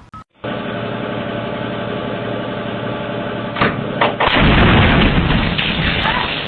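An engine running steadily, with two sharp knocks about three and a half seconds in, followed by a louder, rougher stretch lasting a couple of seconds.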